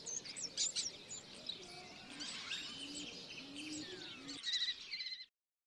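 Small birds chirping and whistling in a quiet background, cutting off suddenly about five seconds in.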